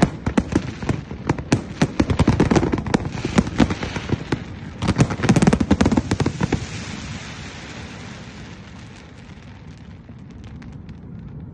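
Fireworks display: rapid bangs and crackling bursts in dense succession, dying away about two-thirds of the way through into steady background noise with a few faint pops near the end.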